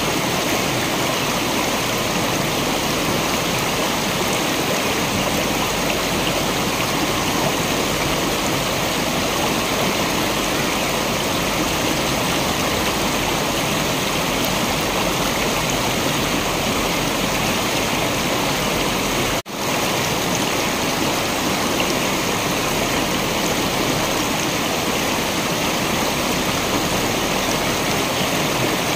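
Waterfall pouring: a steady, dense rush of falling water. About two-thirds of the way through, the sound drops out for a split second and resumes, like an edit or loop point.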